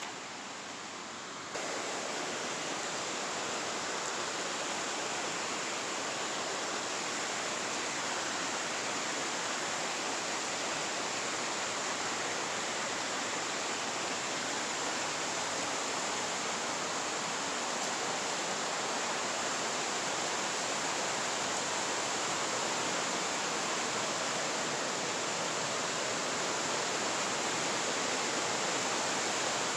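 Steady rush of falling, flowing water from the creek near Shadow Falls, an even hiss with no breaks; it gets abruptly louder about a second and a half in, then holds.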